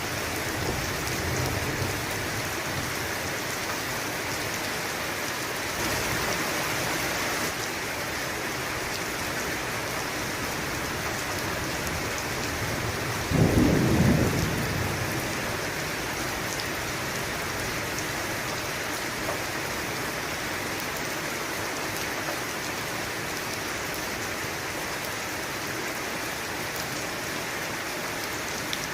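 Steady heavy rain with a faint low thunder rumble at the start. A loud, short clap of thunder comes about halfway through and lasts a second or two.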